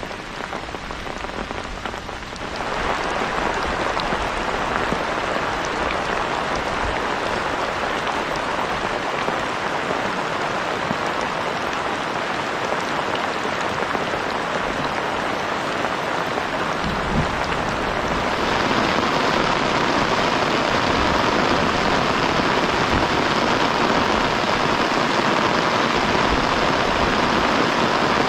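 Heavy rain falling in a steady, dense hiss. It grows louder about two and a half seconds in and again around eighteen seconds in.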